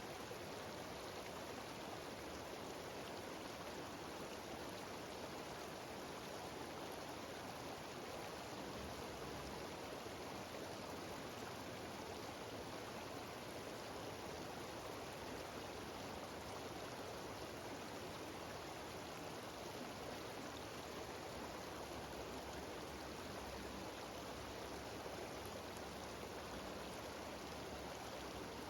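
Mountain stream cascading down small waterfalls: a steady, even rush of falling water with no breaks.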